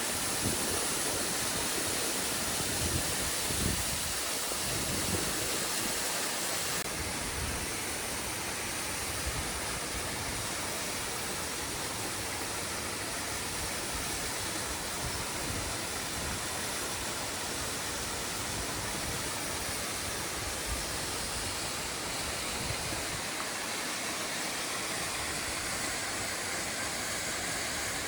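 Steady rush of water from a mountain stream and its cascades.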